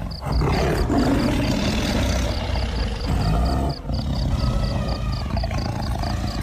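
Lioness growling and roaring, with a brief drop about four seconds in.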